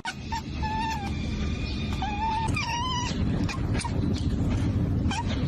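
A cat meowing, several drawn-out calls in a row, over a steady low rumble.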